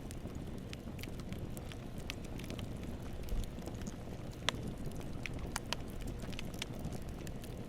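Campfire burning: a steady low rumble of the flames with scattered crackles and pops from the burning wood, the sharpest pop about four and a half seconds in.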